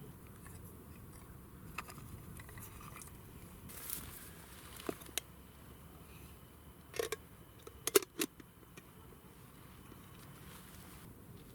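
A few scattered sharp clicks and knocks over a quiet background, with a short rustle about four seconds in. The loudest clicks come in a quick cluster about eight seconds in.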